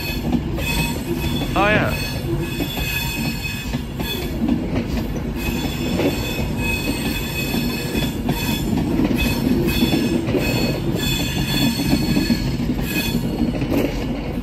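A passenger train moving slowly at a station, its wheels squealing over a steady rumble, with several high squealing tones held throughout. About two seconds in there is a short rising squeal.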